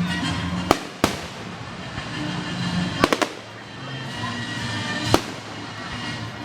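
Aerial fireworks bursting overhead: two sharp bangs in the first second, a quick triple crackle of reports about three seconds in, and one more bang near the end.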